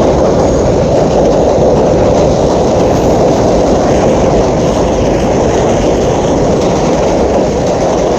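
Loud, steady rumbling noise with no clear pitch or distinct strokes, holding at one level throughout.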